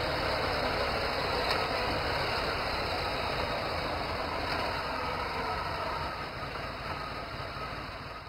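Honda motorcycle engine running steadily, fading out near the end.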